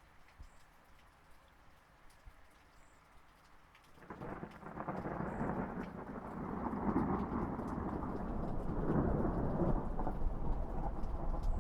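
Light rain pattering with scattered drop ticks, then about four seconds in a roll of thunder breaks in and builds into a long, loud rumble that is still going at the end.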